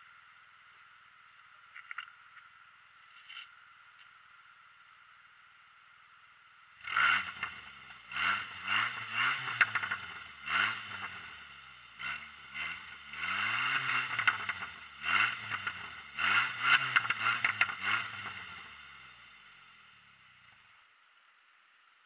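Chevrolet Cavalier engine turning over in repeated surges, its pitch rising and falling about once a second without settling into a steady idle, on a car that has broken down. It starts about seven seconds in and fades out near the end.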